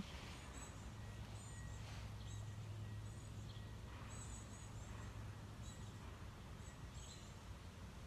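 Birds chirping in short, high-pitched chirps, a few each second, over a low steady hum.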